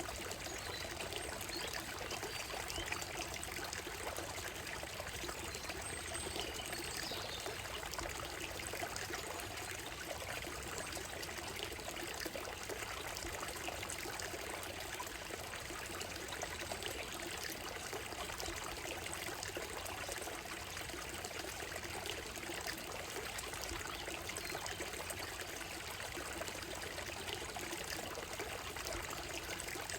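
Shallow stream running over a gravel and stone bed, a steady, even trickling and babbling of water.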